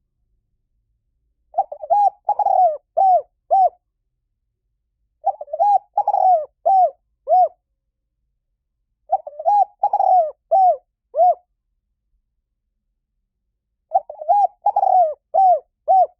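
Spotted dove cooing: four phrases of several low, arched coos each, about four seconds apart.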